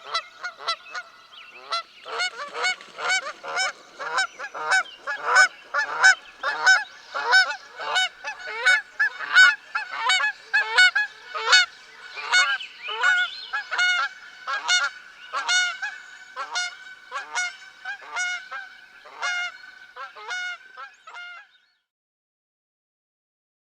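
A flock of geese honking, many overlapping calls in quick succession that stop about two seconds before the end.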